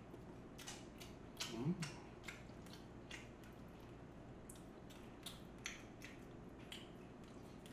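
A person chewing a mouthful of food, with a string of short, sharp wet mouth clicks and smacks. A brief low murmur comes about a second and a half in.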